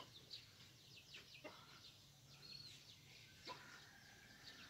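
Near silence with faint, high bird chirps scattered through, and a few soft clicks.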